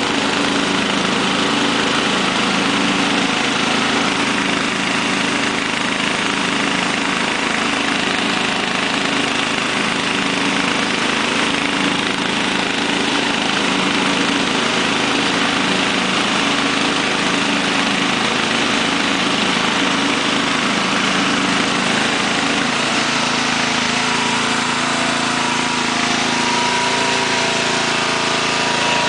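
Murray 17 HP riding lawn tractor's engine running steadily, with a slight change in its note about three quarters of the way through.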